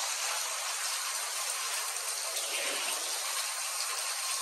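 Heavy tropical-storm rain pouring down in a steady hiss.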